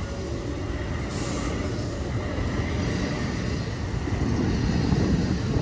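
NJ Transit double-deck commuter train passing close by, its wheels rumbling steadily on the rails and growing gradually louder as the cars go past.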